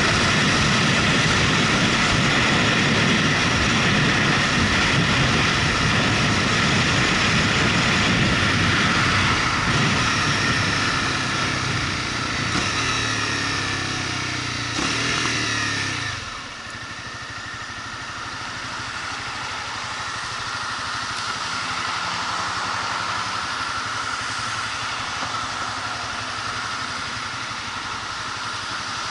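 Motorcycle engine and rushing air while riding. The engine note falls for a few seconds before the sound drops sharply about halfway through. After that the engine runs quieter and steadier, as the bike slows down.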